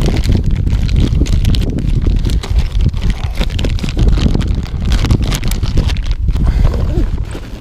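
Wind buffeting the microphone in a heavy, gusting rumble, with scattered small clicks and knocks.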